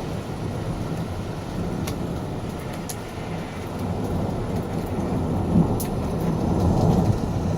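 Thunder rumbling on and on, a low rolling sound that swells louder from about halfway through, with a few sharp ticks of rain.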